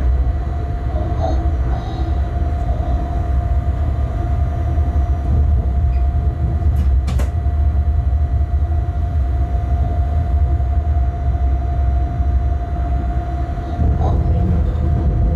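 Inside the cab of a Bombardier TRAXX class 186 electric locomotive under way: a heavy, steady low rumble with a constant whine above it, and one sharp click about seven seconds in.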